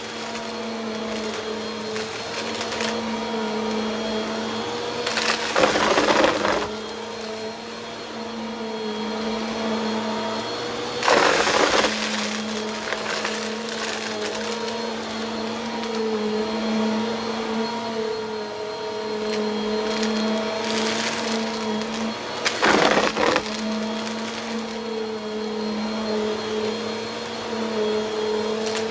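Bissell vacuum cleaner running with a steady motor hum, broken three times by a brief, loud crackling rattle.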